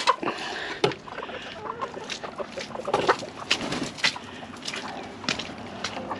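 Chickens clucking, with frequent short knocks and clicks scattered throughout.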